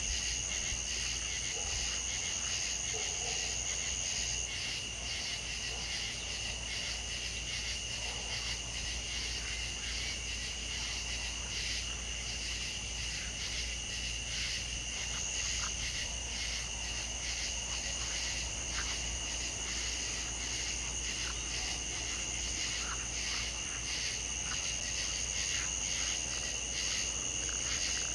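A steady night chorus of crickets and other insects, a dense high-pitched trilling that keeps on without pause.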